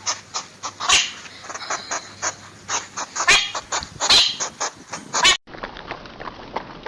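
Animal sounds: a run of short, sharp clicks, about two or three a second, with a few louder calls among them. The sound breaks off and changes abruptly to a busier, steadier texture a little over five seconds in.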